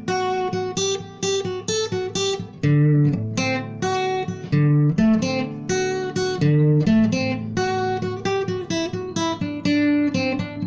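Instrumental acoustic guitar music: a melody of plucked notes over a bass line, several notes a second.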